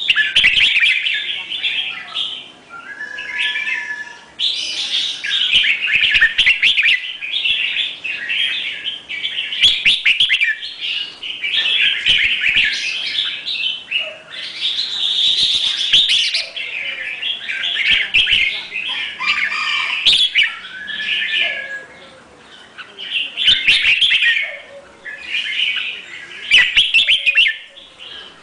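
A songbird chirping and singing in quick, busy, near-continuous phrases, broken by brief pauses.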